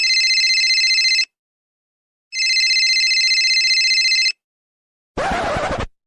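Telephone ringing: two trilling rings of about two seconds each, a second apart. Near the end, a brief, different noisy sound cuts in.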